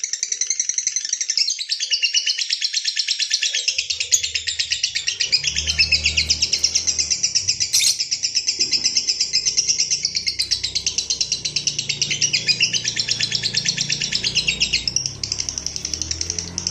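Lovebird singing a long ngekek: a rapid, unbroken chattering trill, high-pitched, with no pauses. A low hum comes in underneath about four seconds in.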